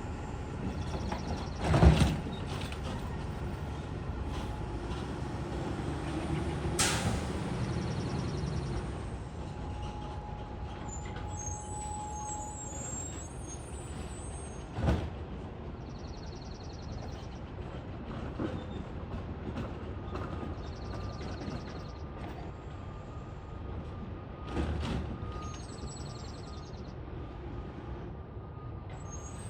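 Heil STARR garbage truck running steadily, with a loud clank about two seconds in, a sharp air-brake hiss about seven seconds in, and a few more knocks later.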